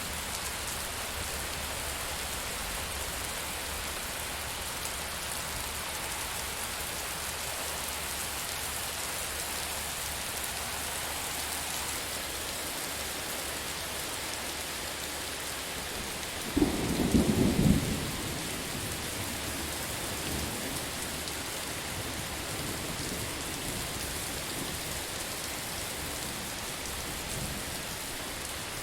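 Steady heavy rain with a loud crack of thunder a bit past the middle that rumbles on for a second or two, then fades into faint low rumbling under the rain.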